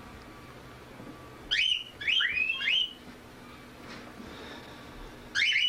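Pet bird calling with short, loud, upward-sweeping chirps: four in quick succession from about a second and a half in, then one more near the end.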